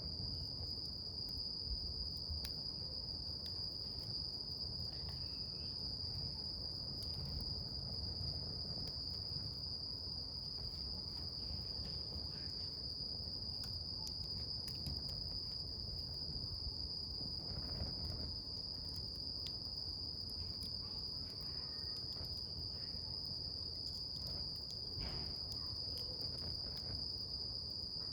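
A campfire burning, with scattered small crackles and pops over a low rumble. A steady, high-pitched chorus of crickets runs unbroken above it and is the loudest sound.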